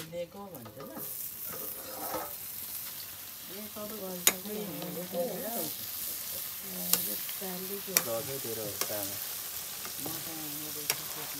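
Chicken curry frying with a steady sizzle in a metal wok over a wood fire, stirred with a metal spatula that clicks sharply against the pan a few times.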